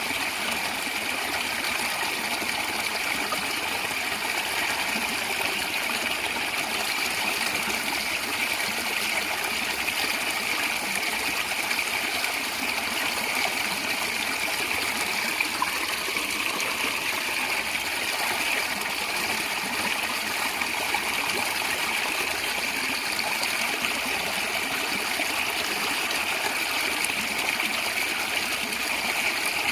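Natural stream water flowing and gurgling in a steady, continuous rush.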